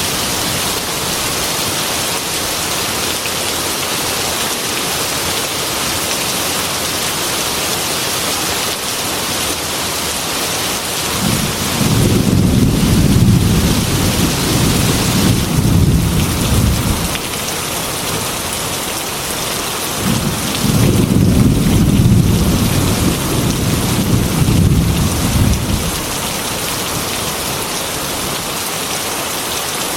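Heavy rain drumming steadily on a metal roof, with two long rolls of low thunder: one starting about a third of the way in, the other about two-thirds through.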